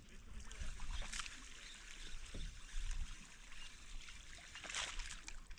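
Faint water splashing and trickling at the side of a kayak while a hooked bass is fought, with a couple of brief louder splashes or knocks, about a second in and near the end.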